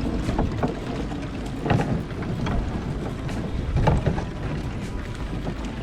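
Wind buffeting the microphone and water lapping against a fishing boat's hull, with irregular knocks and swells about once a second.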